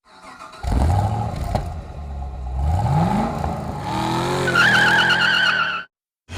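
Car engine running, then revving with a rising pitch, followed by tyres squealing with a wavering tone; the sound cuts off abruptly near the end.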